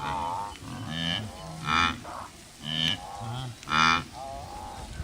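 Wildebeest calling: five short calls, roughly one a second.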